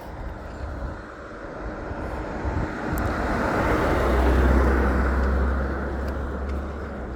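A car passing by on the street: tyre and engine noise swells, is loudest about four to five seconds in, then fades away.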